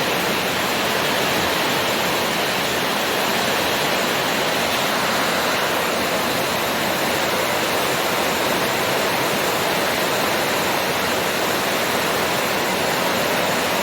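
Heavy downpour driven by strong wind, a steady, unbroken rushing noise.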